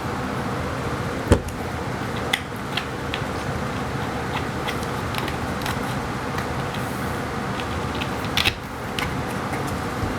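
Steady rumbling background noise with scattered light clicks and taps, the sharpest a little over a second in and a small cluster near the end.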